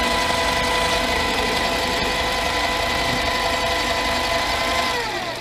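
Harbor Freight mini lathe running steadily with a motor whine while turning down metal stock, then spinning down near the end as it is switched off, the whine falling in pitch.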